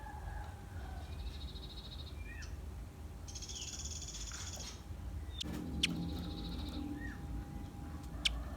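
Velvet-fronted nuthatch calling: rapid high trills of quickly repeated notes, a few short down-slurred chips, and several sharp ticks, over a steady low hum.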